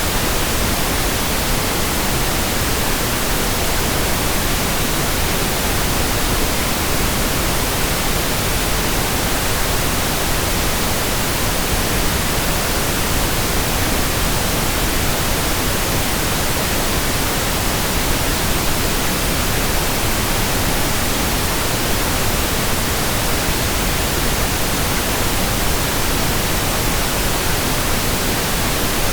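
Steady, unchanging pink noise: an even hiss across the whole range, softer in the highs than white noise.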